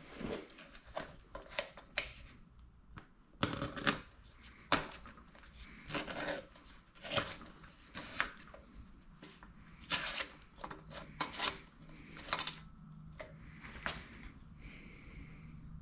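Hands working on an air compressor's parts: irregular clicks, knocks and rubbing, some sharp, scattered through, consistent with a valve being taken out.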